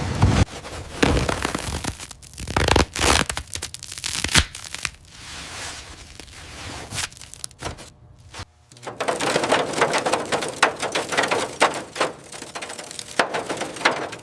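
Irregular scraping and cracking strokes with knocks from hand work on a car, and a denser run of rapid scraping from about halfway on.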